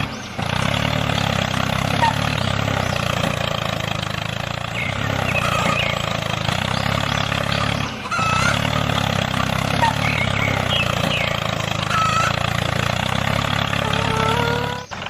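Tractor engine running steadily, with short high chirps over it; the sound breaks off briefly and starts again about halfway through, like a looped sound effect.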